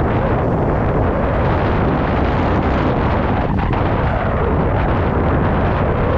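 Wind buffeting the microphone of a moving vehicle: a loud, steady rushing roar that buries the sound of the ride underneath.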